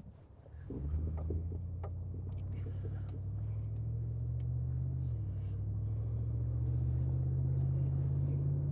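Pickup truck engine running with a steady low hum that comes up about a second in; its pitch shifts about five seconds in.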